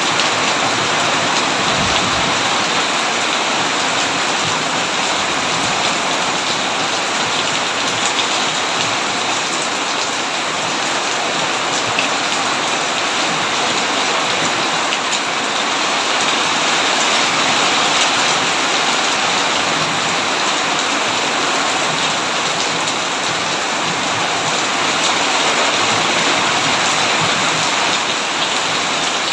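Heavy rain falling steadily, an even unbroken downpour.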